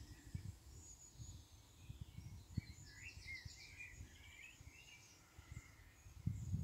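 Faint outdoor birdsong: small birds chirping and giving short trills, over low rumbling bumps, with a louder low thump near the end.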